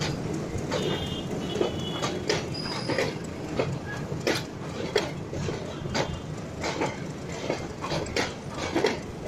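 Train carriages rolling along the station track, wheels knocking over the rail joints in a quick uneven clatter over a steady low rumble.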